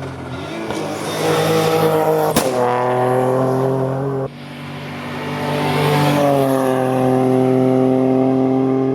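Hillclimb racing cars' engines at full throttle going past. The first is rising in pitch, with a sharp crack about two seconds in, and cuts off abruptly a little after four seconds. A second car then builds up and passes with a steady engine note that drops slightly in pitch as it goes by.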